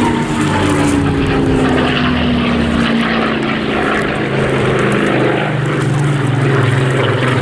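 V-12 piston-engined WWII fighter flying past. The engine and propeller note falls in pitch over the first two seconds or so as it passes, then settles into a steady drone.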